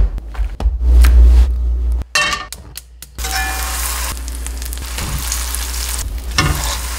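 Grilled cheese sandwich sizzling in a hot frying pan: a steady sizzle begins about three seconds in, after a few knocks and clatters from the sandwich being handled.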